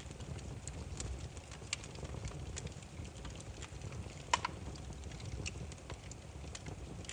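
Wood fire burning with a low steady rumble and scattered sharp crackles and pops from the firewood, the loudest a quick double pop about four seconds in.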